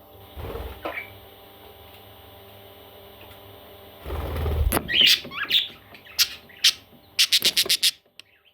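Parrot chicks' short high squeaks among rustling and handling noises, starting about halfway through, then a fast run of sharp scratchy clicks near the end, over a steady background hum.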